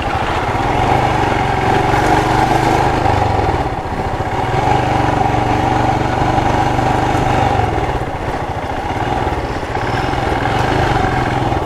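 Royal Enfield Himalayan's single-cylinder engine running under way, with brief dips in level about four seconds in and again a little past the middle.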